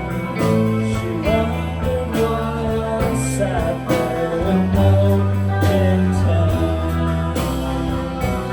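Live band playing a song: guitar over bass and drums, with a bending lead line.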